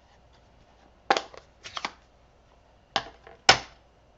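Rubber stamp on an acrylic block being tapped onto an ink pad and pressed onto card stock: sharp knocks on the table in three quick clusters.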